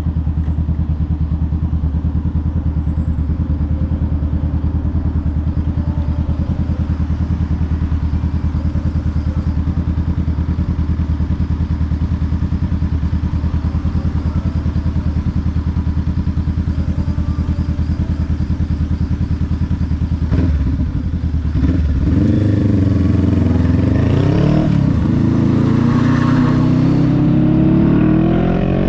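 Honda Rebel 500's parallel-twin engine running at a steady note for about twenty seconds, then pulling away with its pitch rising and dropping several times as it accelerates through the gears.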